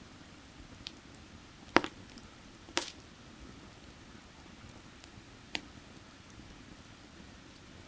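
Burning firewood crackling: a few sharp pops, the loudest just under two seconds in and another near three seconds, over a steady low rush of creek water.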